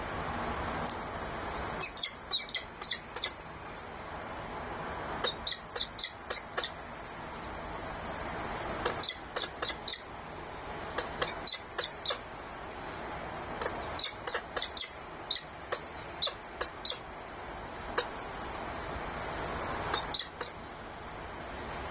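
Bird calls at a nest: groups of four to six short, high-pitched chirps, repeated every few seconds over a steady background hiss.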